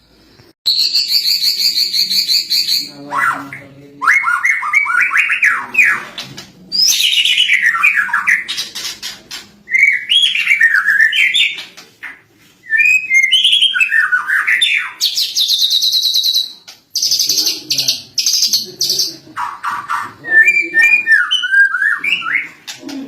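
Lovebird singing a long, varied song in bursts: rapid high trills alternating with fast, warbling chatter, carrying phrases learned from cililin tutoring recordings.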